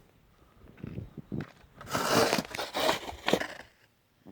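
Footsteps crunching through deep, heavy wet snow: a handful of uneven steps, the loudest about halfway through.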